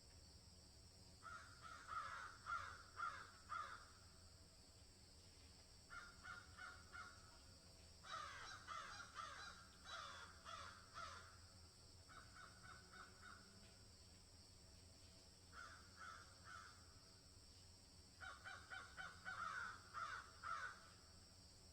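A bird calling faintly in about six bouts of quick repeated notes, several notes a second, over a steady faint high hiss.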